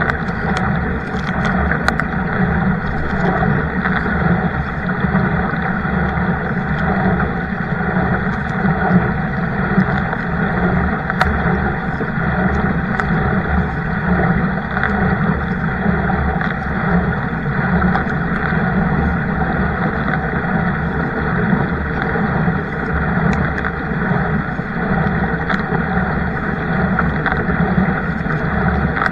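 Steady loud rushing of wind on the microphone and water moving along a kayak, with a few faint knocks.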